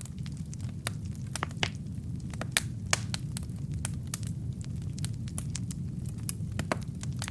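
Logs burning in a fireplace, crackling: frequent irregular sharp pops and snaps over a steady low rumble of the flames, with the loudest snaps a little under three seconds in.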